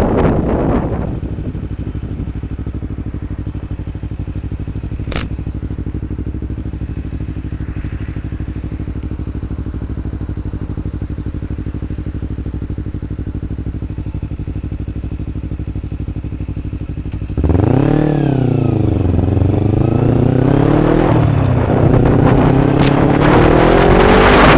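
Kawasaki Ninja 250R's parallel-twin engine idling steadily. About three-quarters of the way in it revs up as the bike pulls away, its pitch rising and dropping with the gear changes, and wind noise on the microphone builds near the end.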